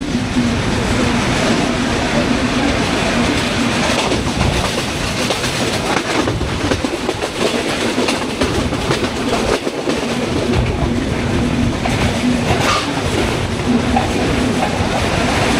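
Broad-gauge passenger train running at speed, heard at an open coach window: a steady rumble and rush with wheels clattering over the rail joints and a steady low hum underneath.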